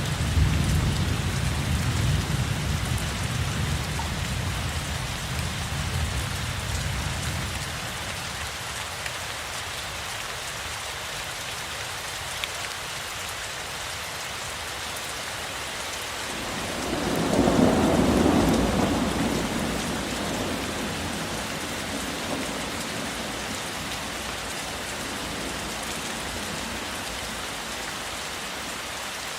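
Steady rain falling, with a low rumble of thunder dying away over the first several seconds. A second rumble swells about two-thirds of the way through and then fades.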